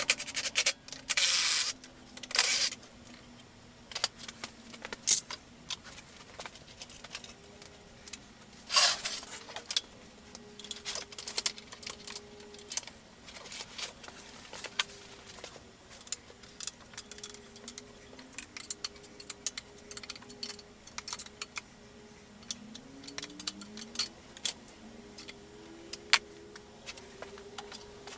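Hand tools and small metal parts clinking and rattling during work on a GY6 scooter's body panels, with irregular clicks throughout and louder scraping, rattling bursts near the start and about nine seconds in.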